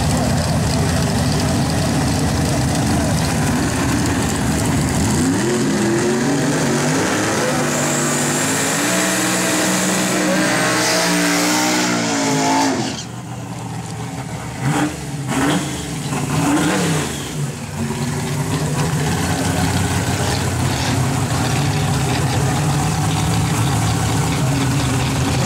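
A vehicle engine accelerating hard, its pitch climbing in several rising sweeps with a high whine over the top, then cutting off suddenly about halfway through. A few short revs follow, over a steady engine drone that runs on underneath.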